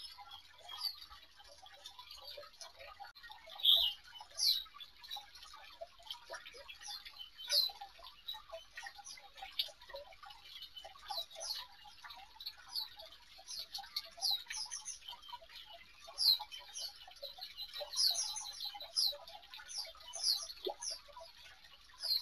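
A flock of small aviary birds chirping: many short, high calls overlapping and repeating, most of them falling quickly in pitch.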